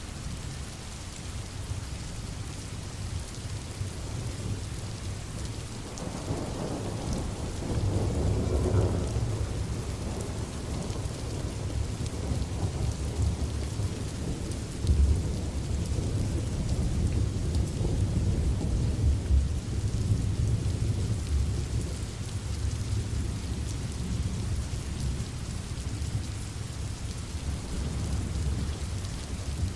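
Steady rain with rolling thunder: a deep rumble swells about six seconds in, and more rumbling follows through the second half.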